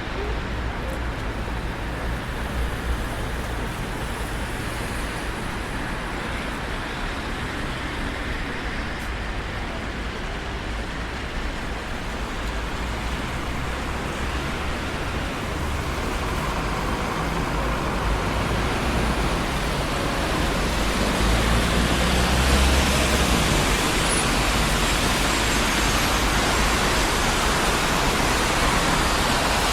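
Steady traffic noise from a busy city street, with cars rushing past in a continuous roar of tyres and engines. It grows louder in the second half, with a deeper rumble near the peak.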